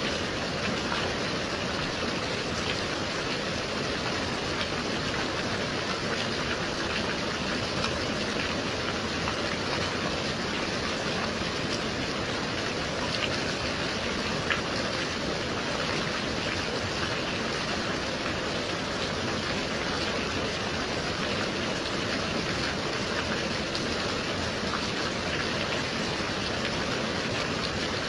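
Steady gentle rain: an even hiss with a few faint taps scattered through it.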